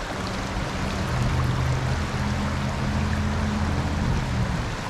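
Stream water running, with a low steady hum underneath that stops shortly before the end.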